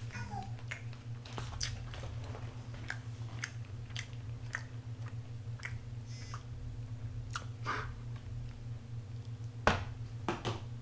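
A person chewing and eating, with small wet mouth clicks scattered throughout over a steady low hum; a sharper click near the end.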